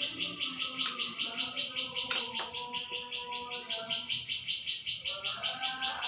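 A bird chirping rapidly and without pause, an even run of about six or seven high notes a second. Two sharp knocks stand out, about one and two seconds in.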